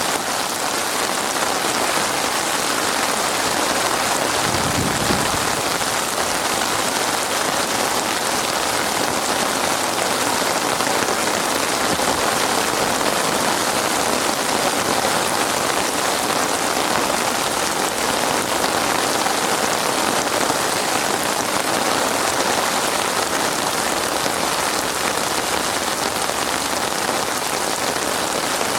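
Heavy rain falling steadily, a dense even hiss of drops on surfaces, with a brief low rumble about five seconds in.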